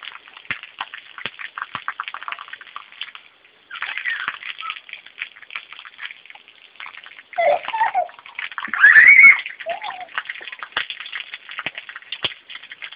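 Rain falling in a dense patter of drops, briefly dropping out a few seconds in. A child's high voice calls out twice in the second half, loudest about nine seconds in.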